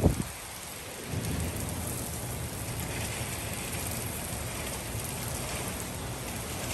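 Hard rain falling steadily during a thunderstorm, with a low rumble underneath from about a second in and a brief low thump right at the start.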